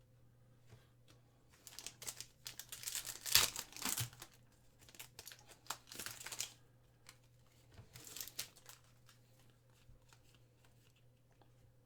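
A 2023 Panini Donruss football card pack's wrapper being torn open and crinkled by hand, a run of rustling from about a second and a half in, loudest in the middle, with a shorter crinkle later on. A faint steady hum lies underneath.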